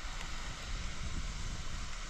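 Wind buffeting the microphone: a low, uneven rumble under a steady hiss.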